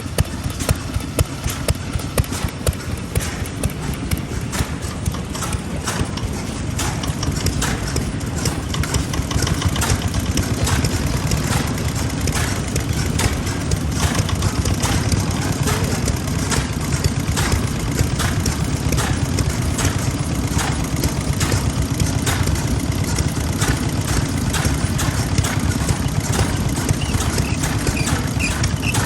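Vintage Japanese single-cylinder stationary engine running with a steady, rhythmic knock of exhaust beats, growing louder about seven seconds in.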